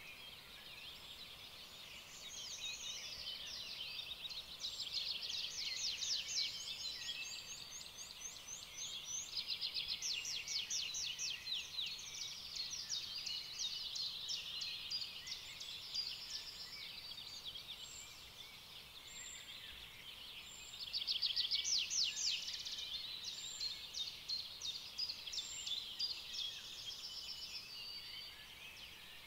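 Songbirds singing: fast trills and high chirping phrases follow one another without a break, over a faint hiss.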